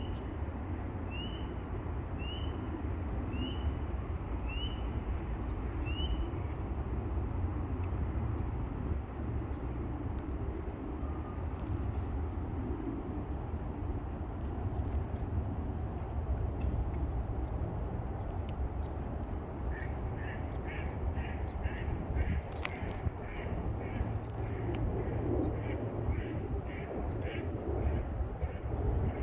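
An evening chorus of frogs and birds: short high peeps repeat steadily about one and a half times a second, with a run of short rising peeps for the first six seconds. From about two-thirds of the way in, a patter of rapid lower clucking notes joins, all over a steady low rumble.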